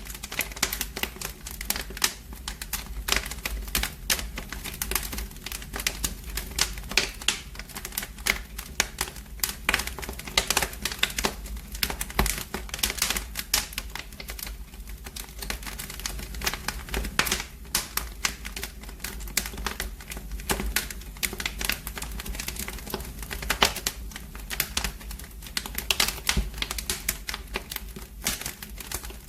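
Wood fire in a fireplace crackling, with dense, irregular snaps and pops over a steady low rumble.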